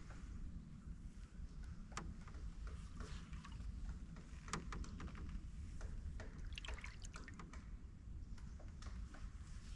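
Canoe paddle working quietly through still swamp water: scattered small drips, trickles and splashes off the blade, over a low steady rumble.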